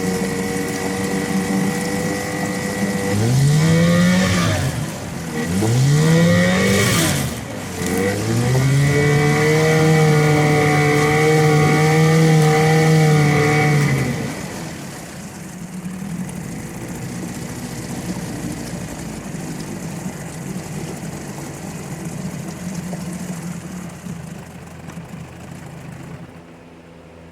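Johnson/Evinrude 9.9 HP twin-cylinder two-stroke outboard running, then revved up and down twice in quick blips. It is then held at high revs for about five seconds before dropping back sharply, leaving a lower, even running noise.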